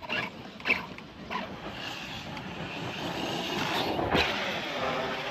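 Large electric RC basher car running nearby, its motor whine and tyre noise building over a few seconds, with a sharp knock about four seconds in.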